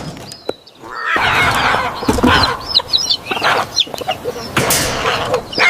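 Chickens clucking, starting about a second in after a brief lull.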